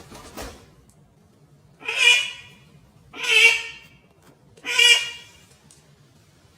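An animal calling loudly three times, each harsh call lasting under a second, about a second and a half apart.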